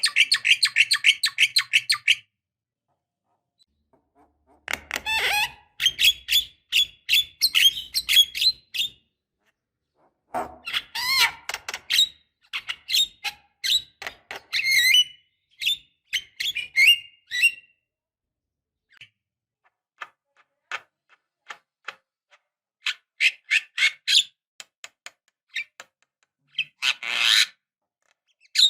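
Javan myna calling: bursts of rapid, chattering notes and harsh calls, broken by silent gaps.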